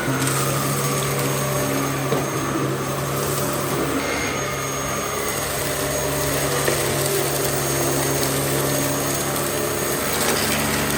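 Dyson DC07 Allergy upright vacuum cleaner running steadily: a constant motor hum over rushing air.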